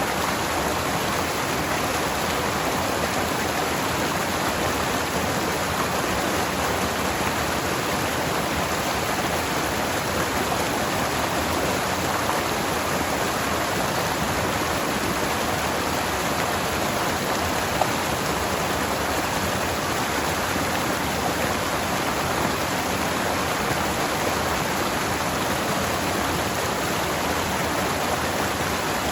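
Forest stream flowing over rocks: a steady, full rush of water.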